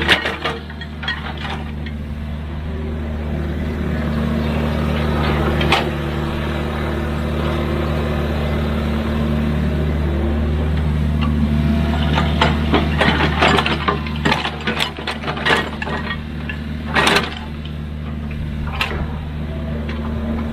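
A heavy diesel machine's engine running steadily, with scattered sharp knocks and clanks, several of them bunched together past the middle.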